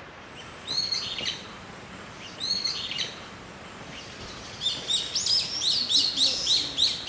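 A songbird singing: two short chirping phrases about a second and a half apart, then a longer run of quick repeated notes from about halfway through, over a faint steady outdoor hiss.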